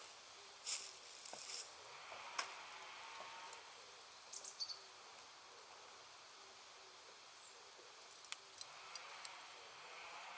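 A charcoal and wood bonfire crackling faintly, with scattered sharp pops as the Iwate cut charcoal bursts. A few come spread through the first half, and a quick cluster comes about eight to nine seconds in.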